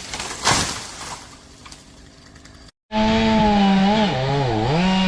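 A brief burst of noise, then, after a sudden cut, a chainsaw running loudly at high revs with a steady whine. Its pitch dips twice near the end.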